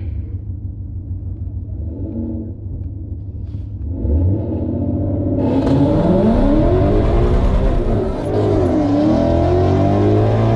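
Ford Mustang GT's 5.0 V8 with a full aftermarket exhaust, idling, then accelerating hard from a drag-strip launch about five seconds in. Engine pitch climbs and drops back at quick upshifts of the 10-speed automatic.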